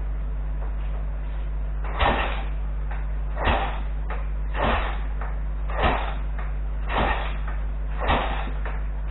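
A series of short, noisy strokes at an even pace, about one every second, starting about two seconds in, over a steady electrical hum.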